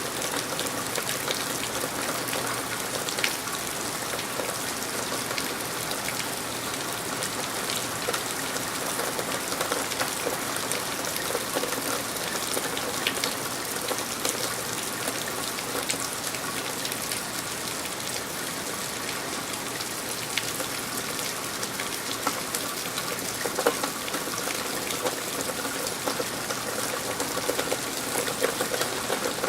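Steady rain falling, an even hiss with scattered sharp ticks of drops landing close by.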